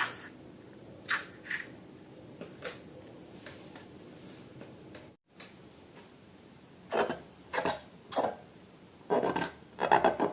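Hands working slime-making materials: short, scattered rubbing and scraping sounds, coming more often in the last few seconds.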